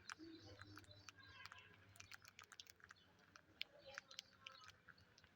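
Faint, irregular clicks and crunches of a pet Psittacula parakeet working its beak, as in chewing food, with a few brief soft chirps.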